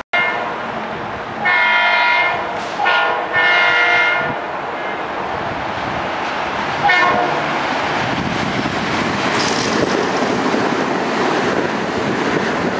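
Metro-North electric multiple-unit commuter train sounding its horn in two long blasts and then a short one as it approaches the station. It then runs past at speed with a loud rushing rumble.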